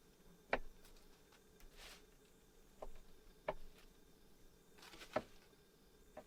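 A few sharp clicks or knocks at irregular intervals, about four in all, with soft rustling between them.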